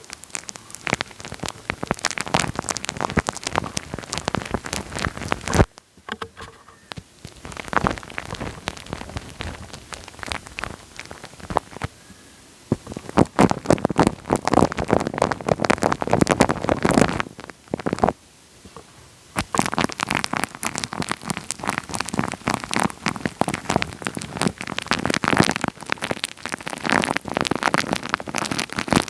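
Wet, sticky crackling right on the microphone, dense fine clicks and pops in long bursts of several seconds with short pauses between them.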